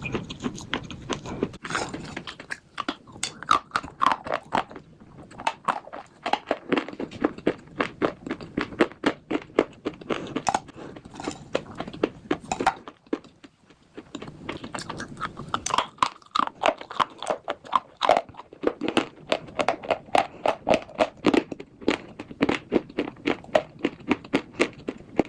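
Slate bars being bitten and chewed, with a quick run of sharp, dry crunches and cracks. They stop briefly about halfway through, then start again.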